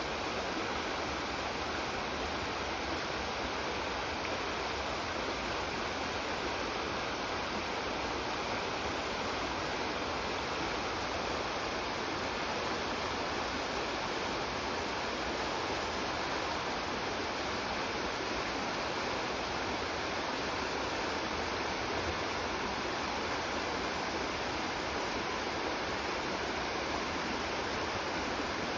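Creek water rushing steadily over rocks, an even constant rush with no change in level.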